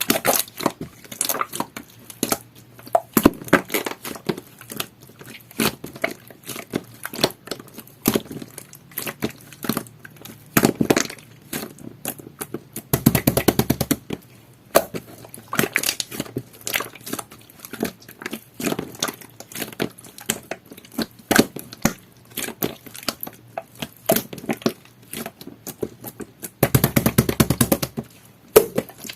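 Yellow jelly-textured slime being squished and pressed by hand, making a constant run of sticky crackling clicks and pops, with denser squelching runs about halfway through and near the end.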